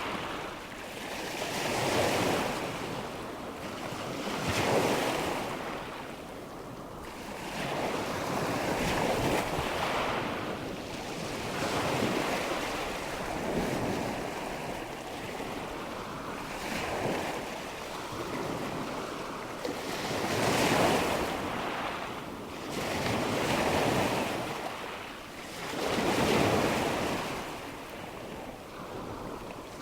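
Nature-sound recording of rushing water and wind, a steady wash that swells and fades every few seconds like surf.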